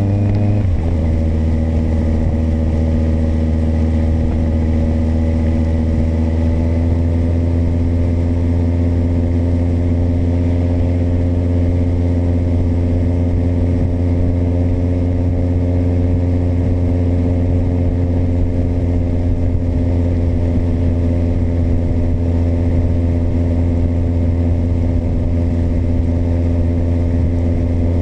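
Kawasaki motorcycle engine under way: the pitch drops sharply about half a second in at a gear change, then rises slowly and steadily as the bike pulls in the new gear.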